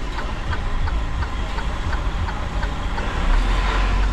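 Semi truck's diesel engine running, with a steady light tick about three times a second; the low rumble swells louder about three seconds in.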